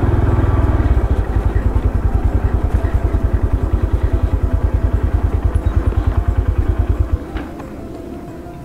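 Small single-cylinder motorcycle engine running with an even low pulsing. The engine sound drops away about seven seconds in.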